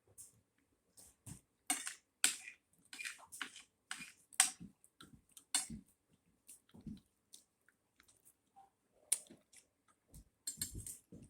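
Close-up eating sounds: irregular wet chewing and mouth smacks, with a few low knocks near the end.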